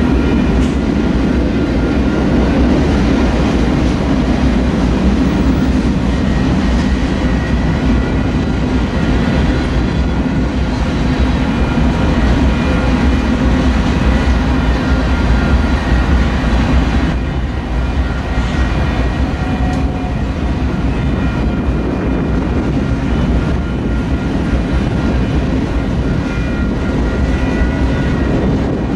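Freight train's boxcars and tank cars rolling past: a steady, loud rumble and clatter of steel wheels on the rails. It eases slightly about two-thirds of the way through.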